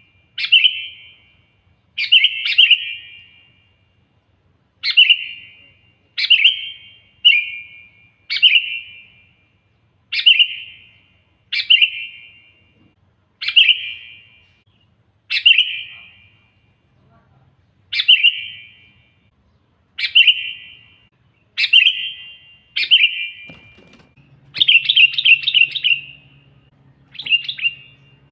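Sooty-headed bulbul calling: short, loud, bright chirps repeated about every one to two seconds, with a longer run of quick notes a few seconds before the end.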